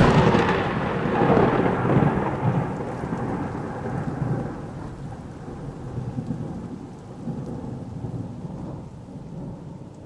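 Thunderclap: a sharp crack, then a long rolling rumble that slowly fades.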